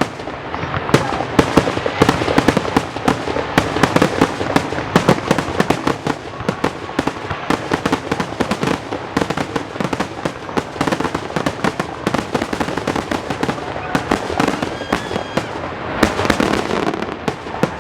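Fireworks finale: a dense, rapid barrage of aerial shell bursts, many bangs a second without a break.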